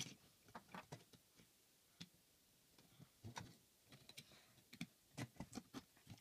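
Faint, irregular small clicks and taps of plastic LEGO pieces being handled, with a few sharper clicks scattered through.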